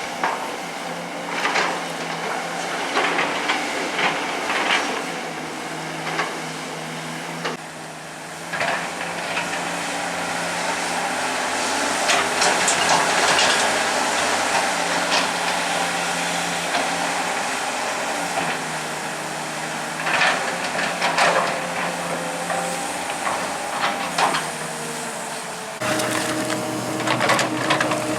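Excavator working: its diesel engine runs steadily under hydraulic load, with repeated knocks and clattering scrapes as the bucket digs. The engine note changes to a different, steadier pitch near the end.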